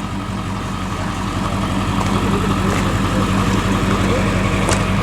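Engine idling steadily, growing gradually a little louder.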